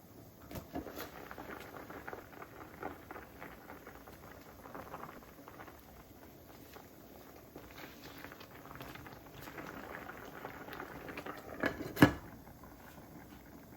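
Food cooking in a pan or pot, a continuous light crackle with many small clicks, and a sharp knock about twelve seconds in.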